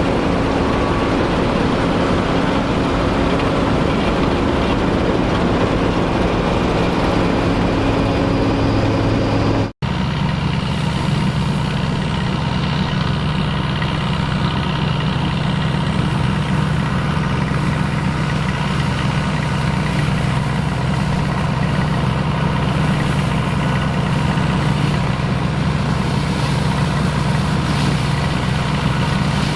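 Engines of vintage farm machinery running steadily. About ten seconds in, a brief cut switches to a different engine with a lower, steady hum.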